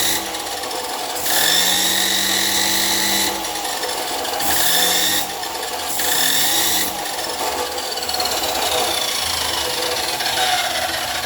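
Angle grinder grinding down a fresh weld on a steel frame bracket. Its whine rises and falls as the disc is pressed into and eased off the metal, and the pitch sinks over the last few seconds.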